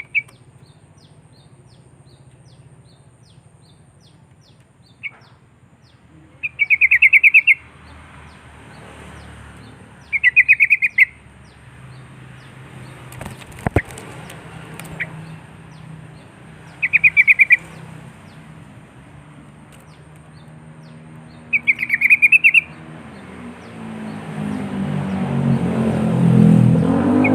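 Yellow-vented bulbul song: short phrases of rapid notes, each about a second long, repeated five times a few seconds apart. A low background rumble grows louder near the end.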